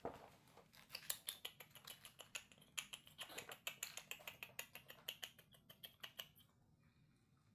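A quick, irregular run of small wet clicks and smacks from baby monkeys drinking milk, stopping about six seconds in.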